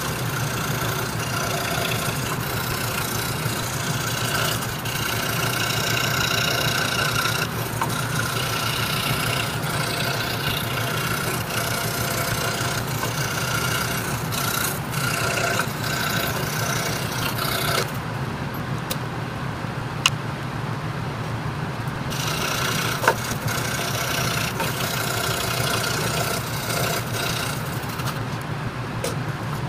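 RBI Hawk 26-inch scroll saw running, its 5-0 skip-tooth blade cutting Baltic birch plywood with a steady motor hum and a rasping cutting noise. The cutting noise drops away for a few seconds past the middle, where two sharp clicks are heard, then resumes.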